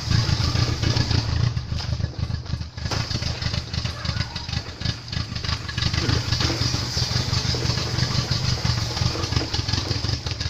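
Audi 80 B3's carburetted engine running at idle with a chugging, uneven beat, just after a dimexide decarbonising soak of its cylinders.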